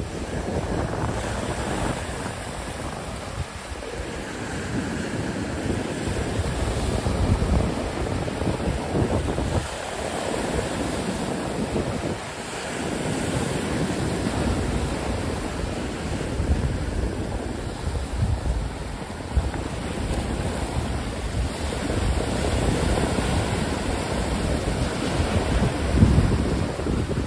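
Wind buffeting the phone's microphone in uneven gusts, over a steady rush of surf on the beach.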